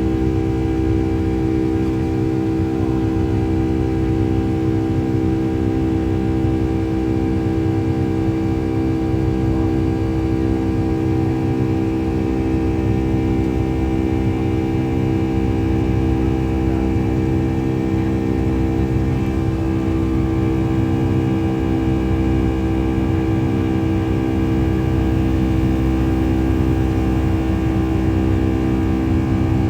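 Steady cabin drone inside a Boeing 757-200 airliner: the jet engines' even hum, with several steady tones over a low rumble, unchanging throughout.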